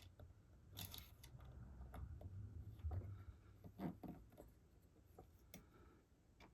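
Faint scattered clicks and light metallic taps of a knife being handled and taken out of a sharpener's clamp, over a low room hum.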